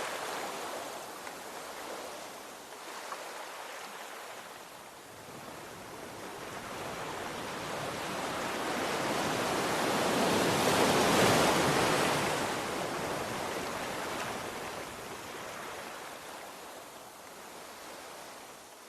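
Ocean waves breaking on the shore: one slow swell of surf that builds to a peak about halfway through, then washes back and fades.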